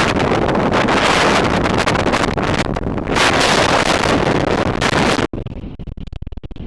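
Blizzard wind buffeting the microphone, a loud, rushing noise that cuts off suddenly about five seconds in and gives way to a quieter, fluttering wind noise.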